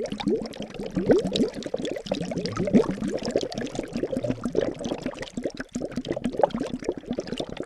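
Liquid bubbling and gurgling: a dense, continuous stream of small bubbles, each a quick rising blip.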